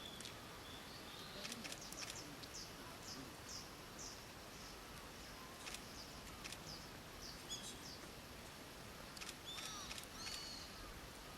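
Outdoor ambience with a small bird giving a run of short, high, falling chirps about two seconds in, and more chirps near the end, along with a few sharp clicks.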